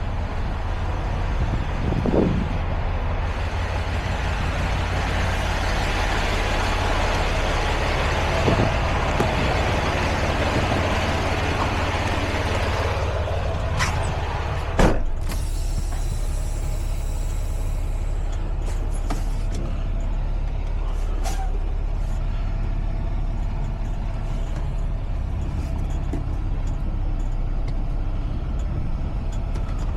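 Semi truck's diesel engine running with a steady low rumble. A broad hiss holds from about two seconds in until about halfway and ends with a sharp click; a few lighter clicks follow later.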